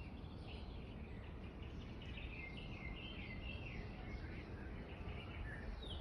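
Small birds chirping, a run of short twittering notes starting about two seconds in, over a steady low background rumble.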